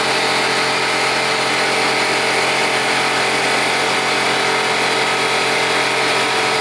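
Air compressor running steadily and loudly, a constant mechanical drone with a hum of steady tones.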